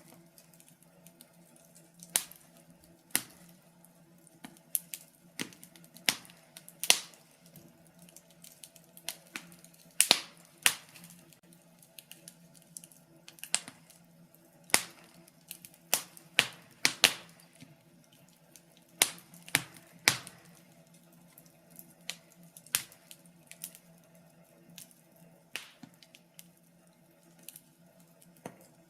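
Wood fire in a fireplace crackling: irregular sharp pops and snaps, about one a second with a few quick clusters, over a faint steady low hum.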